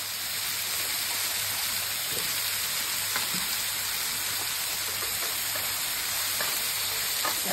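Cherry tomatoes sizzling in hot oil in a copper pan: a steady frying hiss with a few faint clicks.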